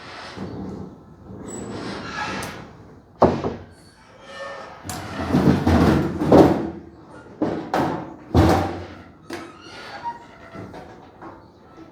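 Irregular knocks, thuds and scraping from hands-on work: a sharp thump about three seconds in, a stretch of scraping and shuffling around the middle, and heavier thumps near eight seconds.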